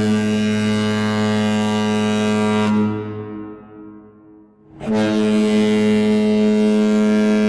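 Ship's horn sounding two long, steady, deep blasts: the first ends about three seconds in, and the second starts about five seconds in.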